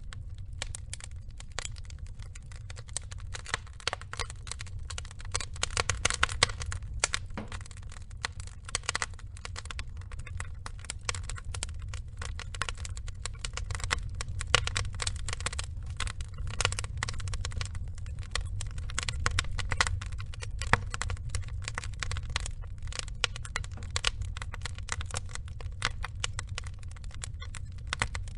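Wood fire burning, with dense irregular crackling and popping over a steady low rumble of the flames.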